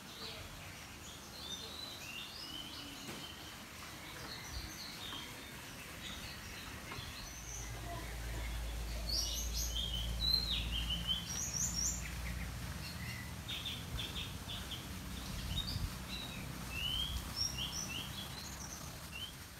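Several birds chirping and calling in short high notes and slurs throughout. About seven seconds in, a low steady motor hum comes up beneath them and lasts most of the rest.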